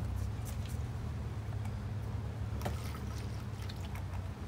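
Heavy rain: a steady low rumble with scattered sharp taps of drops.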